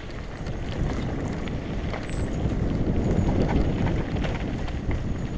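Mountain bike rolling downhill on a rough dirt track: a steady rumble of the tyres over the ground, with small rattles and clicks from the bike. It grows louder over the first few seconds as the bike picks up speed.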